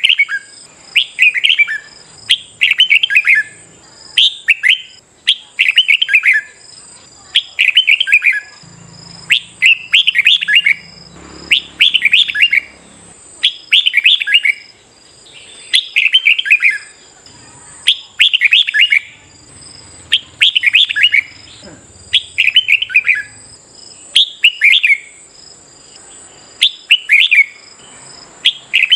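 Red-whiskered bulbul singing: short, bright warbled phrases, one about every one and a half seconds.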